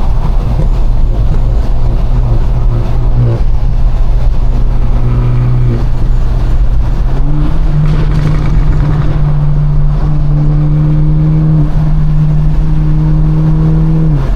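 Straight-piped, Stage 2 tuned BMW 428i's turbocharged four-cylinder under way with a loud, steady exhaust drone. About seven seconds in the pitch rises a little and holds, then drops just before the end.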